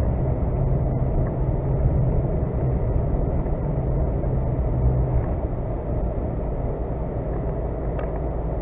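Pickup truck droning from inside the cab as it drives over a snow-packed road rutted by a tractor, its tyres rumbling over the ridges like rumble strips. The rumble is steady, easing a little past the middle.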